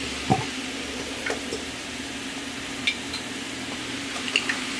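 Mixed vegetables sizzling steadily as they stir-fry in a large metal pot, over a steady low hum. A few short, light clicks break through now and then.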